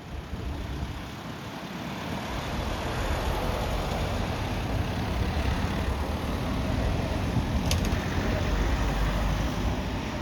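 Jet airliner's engines passing overhead at the airport: a broad, low rumble that swells to a peak and starts to fade near the end. A brief click sounds partway through.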